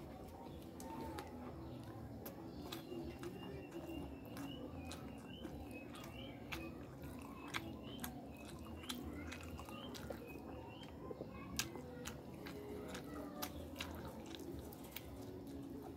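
Close-up chewing and wet mouth smacks of a person eating rice and fish in sauce by hand, with many scattered sharp clicks and squishes.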